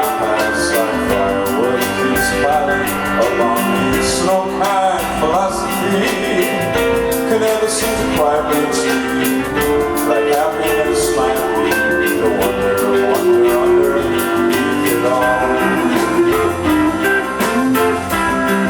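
A rock band playing live: electric guitars and drums with steady cymbal hits, and a voice singing in places.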